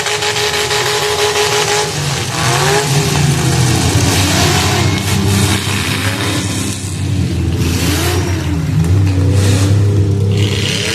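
Demolition derby car engines revving up and down over a dense noisy roar, with several short bursts of noise.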